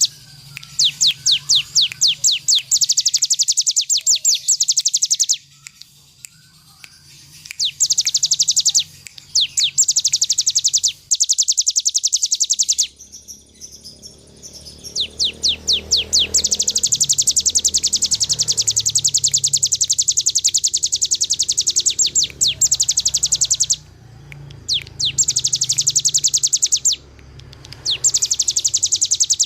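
Hill prinia (ciblek gunung) singing in long, rapid, machine-gun-like trills of high repeated notes, each run lasting a few seconds with short pauses between. The longest run comes in the middle. A faint low hum sits underneath.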